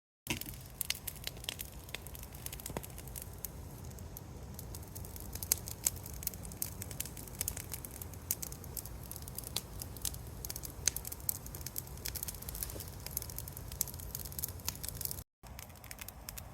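Brush bonfire of blackberry vines and branches burning, with dense sharp crackles and pops over a steady low rush.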